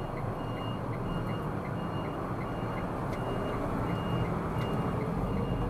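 A short high electronic beep repeating evenly about every 0.7 seconds, over the steady low rumble of a car's engine and tyres on the road.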